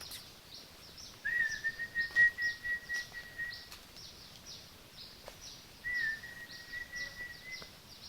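Birds calling: a quick, steady run of short, high, falling chirps, and two long steady whistled notes, the first starting about a second in and lasting over two seconds, the second starting near six seconds in.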